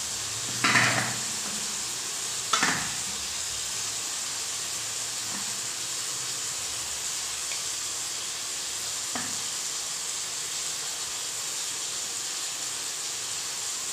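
Steady gentle sizzle of chopped tomatoes and onions cooking uncovered in mustard oil in a kadhai on a low-to-medium flame. A few soft knocks sound about a second in, near three seconds and about nine seconds in, as boiled potatoes are mashed by hand on a steel plate.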